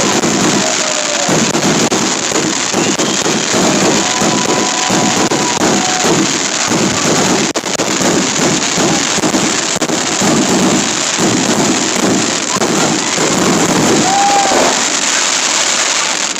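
Fireworks going off in a dense, unbroken barrage of booms and crackling, with a few held tones over it. The barrage drops off suddenly at the very end.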